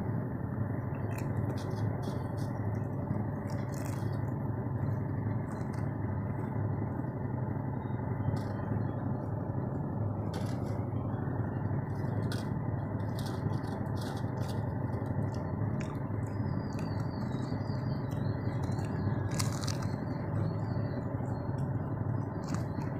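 Crunching of Lay's potato chips and a raw green chilli being bitten and chewed close to the microphone: short, sharp, irregular crunches over a steady low hiss.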